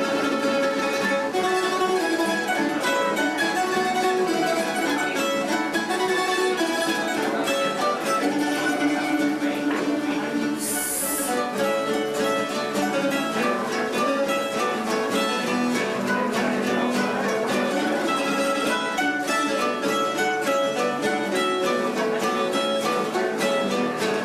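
Plucked-string trio of bandurria, laúd and guitar playing a Cádiz carnival tango, quick plucked notes over guitar chords.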